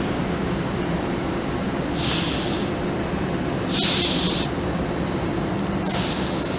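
TransPennine Express Class 802 Nova 1 train standing at the platform with a steady hum, its doors just closed. Three short bursts of air hiss come about two seconds apart.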